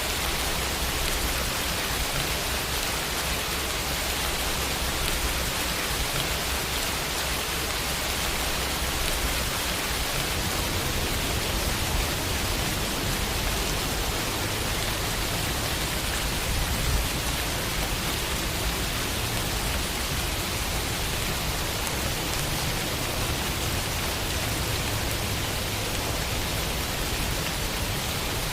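Steady rain falling against a window pane, an even hiss of drops. A slightly louder drop or tap stands out about 17 seconds in.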